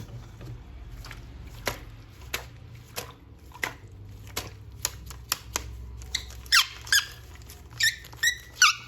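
Plastic toys being handled: a string of sharp clicks and taps, then, from about two-thirds of the way in, a few short, loud, high squeaks.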